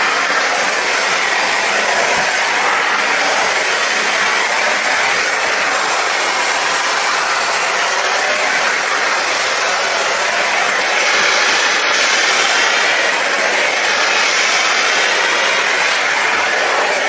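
Dyson Airwrap running with its brush attachment fitted, blowing a loud, steady rush of air.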